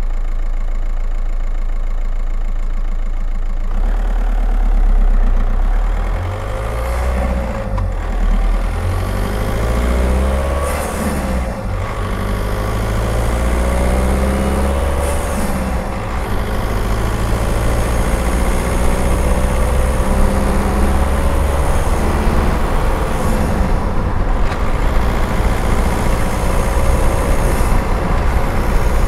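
Skoda Octavia's 1.9 TDI four-cylinder turbodiesel, heard from outside the driver's window with wind and tyre noise. After a few seconds of steady low running, the engine pulls up through several gears, its pitch rising and dropping at each change, then settles into steady cruising.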